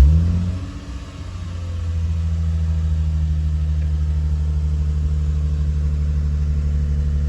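Lexus car engine catching with a brief rev flare, then dropping and settling into a steady idle.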